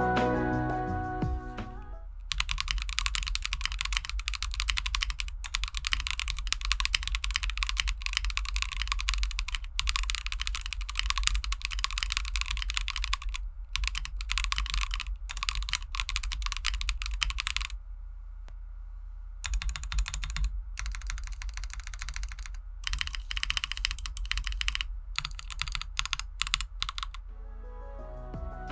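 Typing on a KitAdam brick-built 60% mechanical keyboard by KBDCraft: rapid continuous keystroke clicks. The typing stops for about two seconds partway through, resumes, and stops again shortly before the end.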